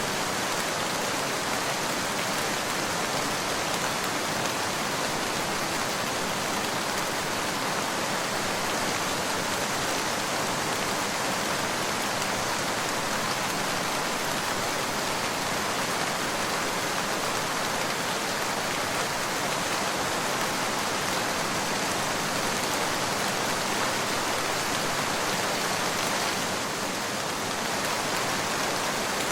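Steady rain falling, an even hiss with no thunder, easing slightly for a moment near the end.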